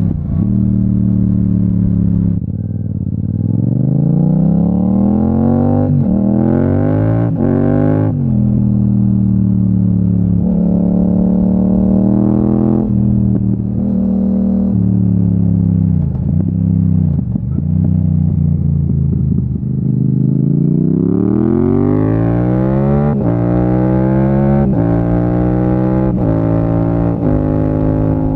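Yamaha MT-07's crossplane parallel-twin engine under way. Revs climb and drop sharply at each upshift, settle and fall off through the middle, then rise again through several quick upshifts near the end.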